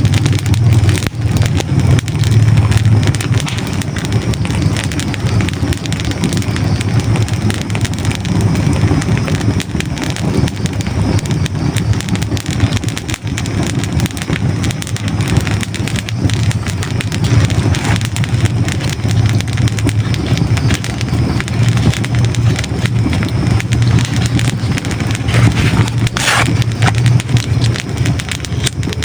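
Hardwood logs burning in a fireplace: a steady low roar of flame with dense crackling and small pops throughout, and one sharper pop near the end.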